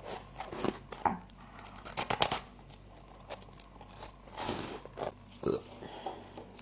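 Crisp crunching of frost, in short irregular bursts with a quick run of crunches about two seconds in.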